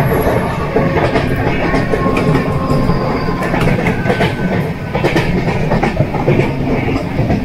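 Express train running at speed, heard from an open coach doorway: a steady rumble of wheels on rails, broken by irregular sharp clacks as the wheels cross rail joints.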